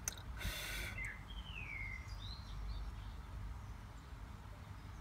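Small birds calling: a short chirp, a whistle falling in pitch and another chirp within the first three seconds, over a steady low background rumble. A brief scratchy rustle comes about half a second in.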